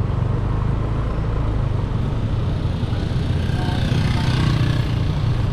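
Motorbike engine running steadily while riding, under road and wind noise; a rushing hiss swells and fades about four seconds in.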